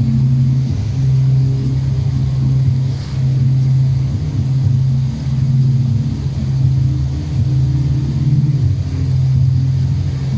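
Boat engine running under way: a steady low hum that wavers slightly in loudness.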